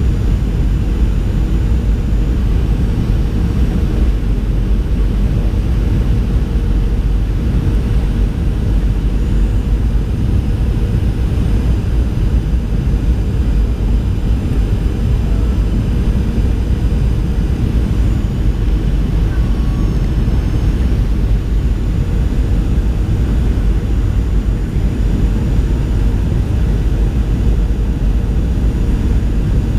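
Steady low rumble of engine and airflow noise inside a Boeing 737's cabin, holding an even level throughout.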